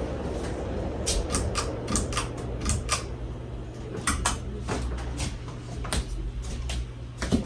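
A steady low hum, most likely the Hunter Low Profile II ceiling fan's motor running, with irregular sharp clicks and knocks scattered over it, a dozen or more in a few seconds.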